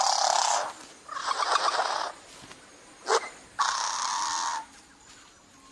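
Flame bowerbird giving three harsh, wheezy buzzing calls, each about a second long, with a short sharp click between the second and third.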